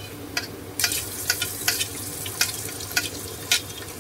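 Onions frying in hot oil in a pressure cooker, the sizzle growing much louder about a second in as ginger-garlic paste goes into the oil, with a spatula knocking against the pot now and then.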